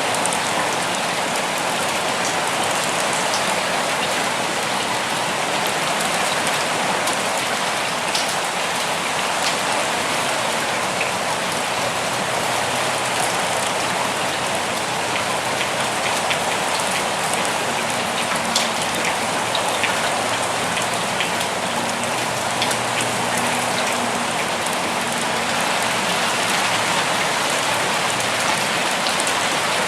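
Steady rain falling, a dense even hiss with scattered individual drop hits standing out.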